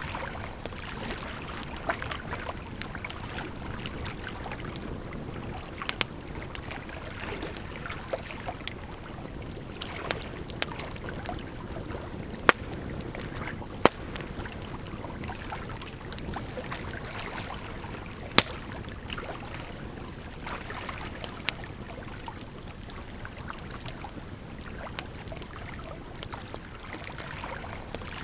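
Wood fire crackling, with scattered sharp pops, over a steady rush of running water.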